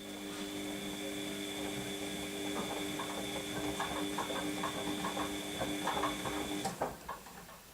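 Washing machine motor switching on with a click and humming for about seven seconds, with irregular sloshing and clatter from the turning drum's load, then cutting off with a click.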